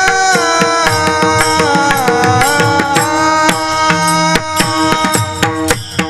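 Devotional kirtan music: a drawn-out sung melody wavering and sliding over a steady harmonium-like drone. A hand drum and cymbal strikes keep the rhythm, with dense, regular strokes.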